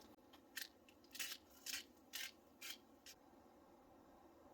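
Faint short scraping strokes, about seven of them at roughly two a second, then they stop.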